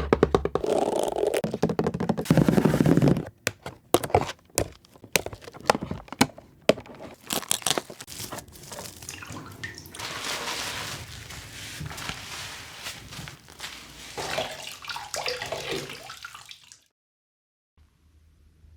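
Water running from a tap into a sink, loud at first, then a spell of clicks and knocks of handling, then a steady run of water that cuts off suddenly near the end.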